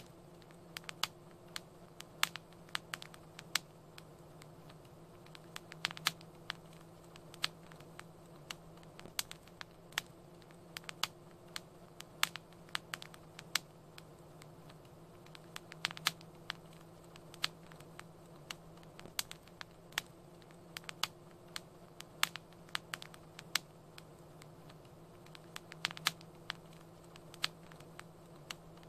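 Wood fire crackling in a fireplace: irregular sharp pops and snaps, at times several a second, over a faint steady low hum.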